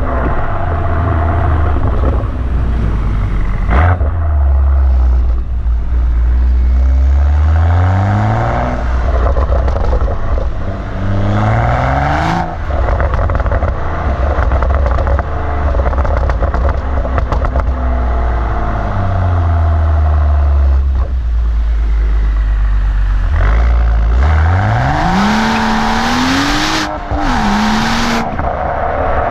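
BMW M135i exhaust with an M Performance rear silencer, valves open, revving and accelerating: the engine note climbs several times and drops back, with one long high climb near the end. A few sharp cracks come at some of the drops.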